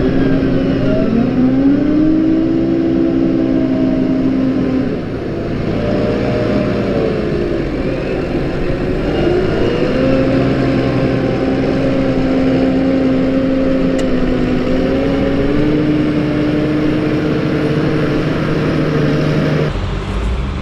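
Tractor engine running steadily, its pitch rising and falling several times as the revs change. Near the end the sound changes abruptly.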